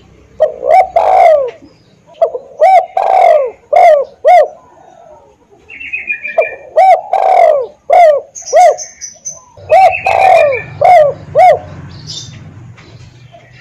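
Spotted dove (tekukur) cooing its song four times. Each phrase is a quick run of short coos around one longer, falling coo. Faint higher chirps from other small birds come between the phrases.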